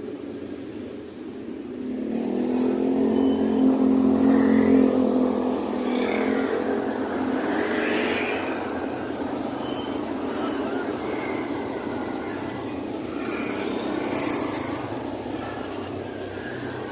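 Radio-controlled miniature truck running: a motor hum that is strongest a few seconds in, with a high whine that rises and falls as it drives.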